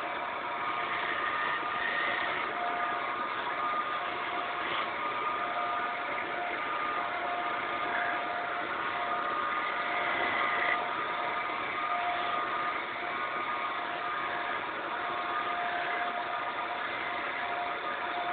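Wood lathe running steadily: an even machine noise with a few steady tones that swell and fade from time to time.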